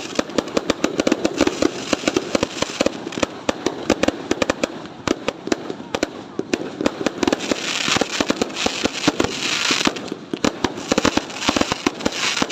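Fireworks going off in a dense, continuous barrage of rapid bangs and crackles, with stretches of hissing.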